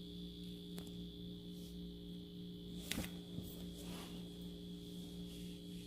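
Steady electrical hum with a faint high-pitched whine, and one sharp click about three seconds in.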